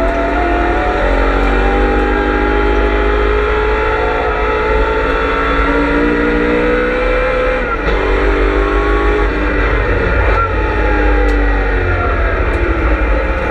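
BMW M3 E92 V8 race car engine heard from on board under hard acceleration, its note climbing steadily for about eight seconds. The pitch then drops sharply at an upshift and climbs again, changing once more later on.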